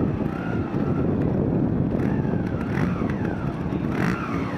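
Motorcycle engines running and revving, their pitch rising and falling over a steady low rumble.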